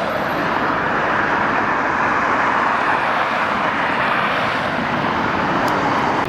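Steady rushing roar of an aircraft passing, even in level throughout.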